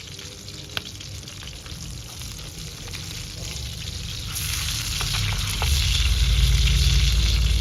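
Food sizzling over a wood fire, with a few sharp crackles. The hiss swells about four seconds in and is joined by a loud low rumble.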